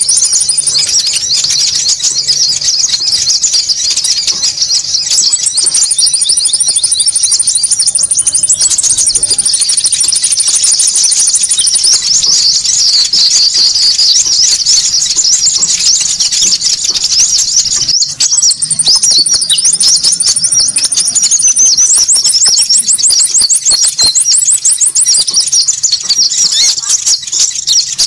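Dense, noisy chorus of small songbirds calling on a bird-lure recording: rapid high chirps without pause, with a thin, very high trill repeating over them at intervals. There is a momentary break about two-thirds of the way in.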